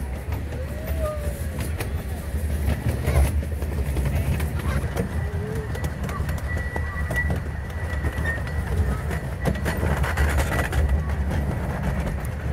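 Ride noise from the open cars of a miniature live-steam railway on the move: a steady low rumble with wheels clicking over the rail joints, and a faint high wheel squeal for a few seconds in the middle as the train rounds a curve.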